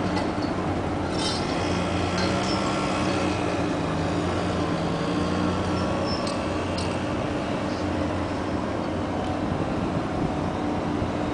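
A ship's engines running with a steady low drone as the ship pulls out of port. A few light metallic clinks come through, about a second in and again around six seconds.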